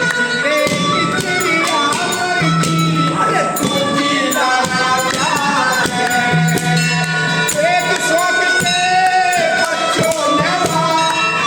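Haryanvi folk music: a bending melody line over steady jingling, tambourine-like percussion.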